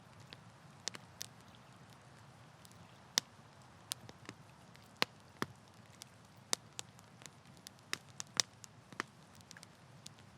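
Wood campfire crackling: irregular sharp pops and snaps, several close together near the end, over a low steady background.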